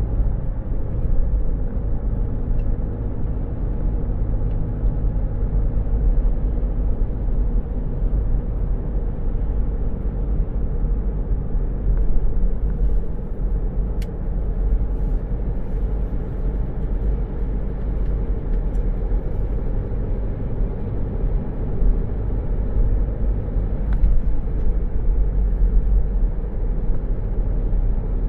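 Steady low rumble of a car's engine and tyres on the road, heard from inside the cabin, with a couple of faint ticks.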